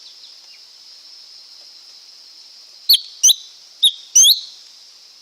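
Lesser green leafbird calling: after about three seconds of only a steady high hiss, four loud, sharp, sweeping notes come in quick succession.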